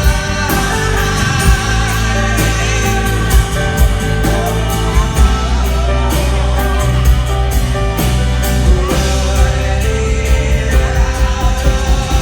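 A live rock band playing, with a singer over guitar, bass and a drum kit keeping a steady beat.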